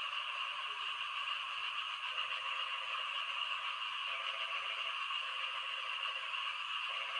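Frogs calling in the rain: a dense, steady chorus, with lower rattling calls about a second long coming in every couple of seconds.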